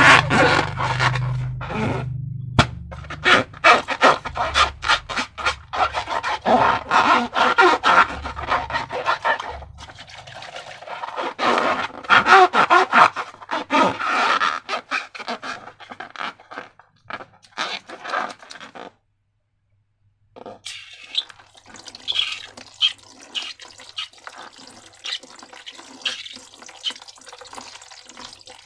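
Slime being squeezed and worked, with dense wet squelching and crackling. It stops for about a second and a half about two-thirds of the way through, then resumes more softly.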